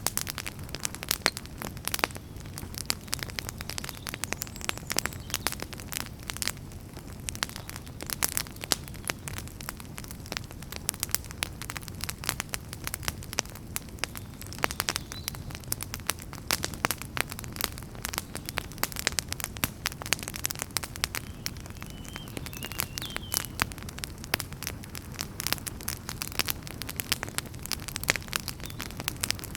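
Wood fire burning in a fireplace, crackling and popping steadily over a low, soft rumble of flames.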